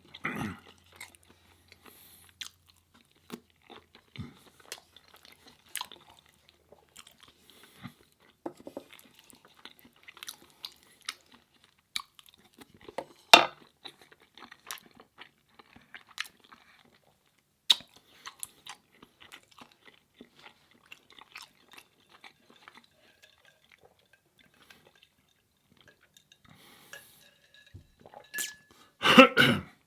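Close-up chewing of food in the mouth: scattered short wet clicks and crunches, with a couple of sharper crunchy snaps partway through.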